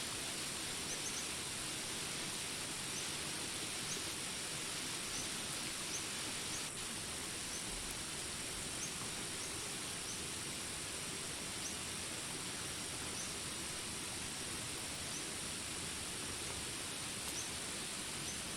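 Jungle ambience: steady rain hiss with a constant high insect drone and short high chirps repeating about once a second.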